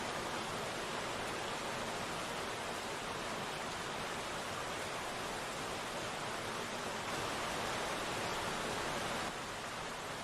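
Steady rain falling, an even hiss, dipping slightly in level near the end.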